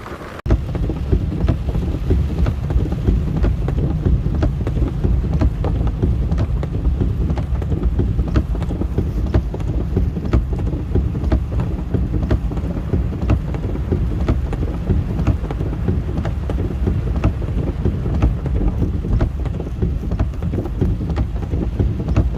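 Strong wind buffeting the microphone in a heavy, steady low rumble, with rain pattering as many sharp ticks. It starts suddenly about half a second in.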